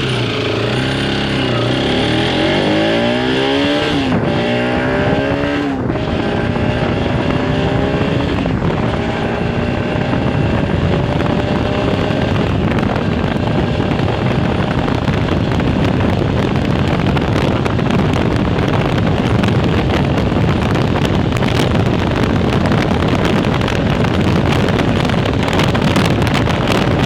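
Bajaj Pulsar RS 200's stock single-cylinder engine and exhaust accelerating through the gears: the pitch climbs and drops back at each shift, three or four times in the first nine seconds. It then holds a steady drone at speed under a growing rush of noise.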